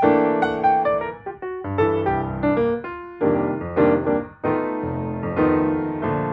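Piano music: chords and notes struck in a steady rhythm, each one fading before the next.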